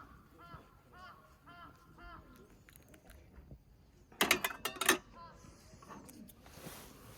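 A bird calling in a quick series of short rising-and-falling notes, about two a second, which stops after two or three seconds. About four seconds in comes a loud, brief burst of rapid clattering clicks with some ringing, followed by a short hiss.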